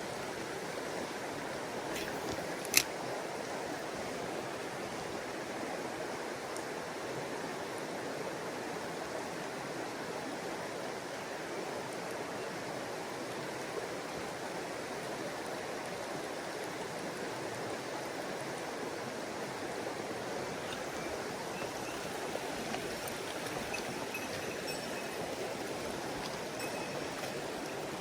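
Mountain stream water rushing steadily. A single sharp click about three seconds in.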